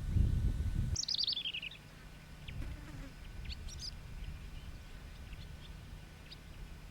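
Wild birds calling: a bright, falling run of rapid notes about a second in, followed by scattered short, high chirps. A low rumble fills the first second and cuts off abruptly.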